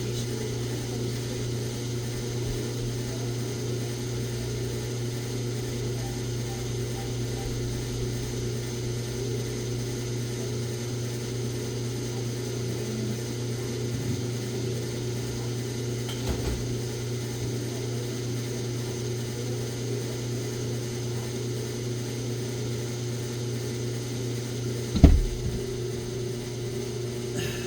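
Self-service petrol pump dispensing gasoline: the dispenser's pump and meter running with a steady mechanical hum. A few light knocks, then one sharp loud knock near the end.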